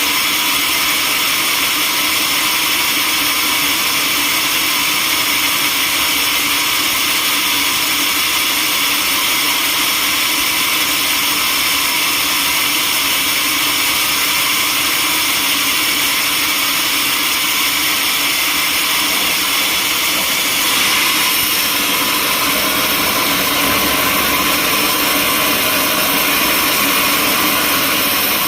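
Sawmill saw running steadily: a loud, even machine noise that shifts slightly about 21 seconds in.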